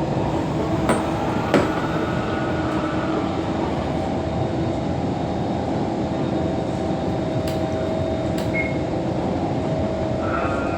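Kawasaki C151 MRT train with PMSM traction motors running between stations, heard from inside the carriage: a steady rumble of wheels on rail with a steady motor hum, and two sharp knocks about a second in.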